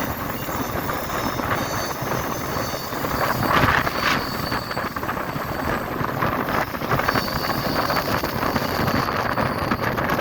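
Passenger express train running at speed, heard from on board: a steady rumble with clatter of wheels over the rails and wind buffeting the microphone. A thin high squeal comes and goes.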